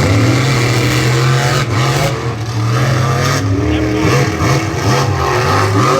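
Monster truck engines, supercharged V8s, revving hard in a head-to-head race. The sound gets suddenly louder at the start, and the pitch climbs and drops several times.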